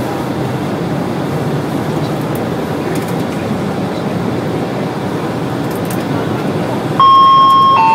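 Steady running noise of an express train heard from inside the passenger carriage. About seven seconds in, the on-board public-address chime sounds two falling notes, the signal that a passenger announcement is about to start.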